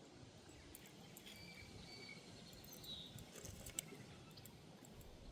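Near silence outdoors, with a few faint, short bird chirps and one small sharp click about four seconds in.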